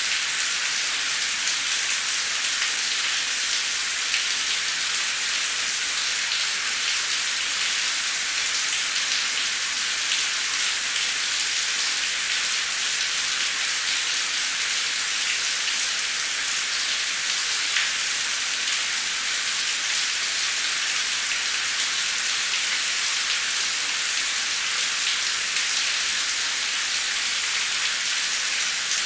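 Heavy rain falling steadily: a dense, even hiss with scattered drops ticking through it.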